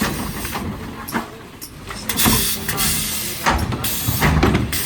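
Mercedes Econic refuse lorry running, with repeated bursts of air hiss and low thuds from the bin-lifting work.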